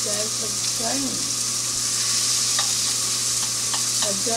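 Pork chops sizzling as they fry in a pan: a steady hiss, with a few faint clicks in the second half.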